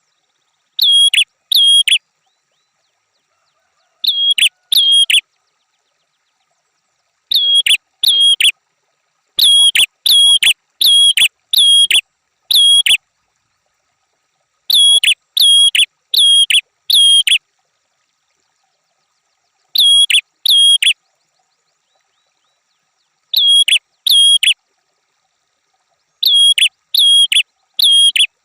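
Prinia (prenjak) calling: short, sharp, high notes given in quick bursts of two to five, with dead silence between the bursts.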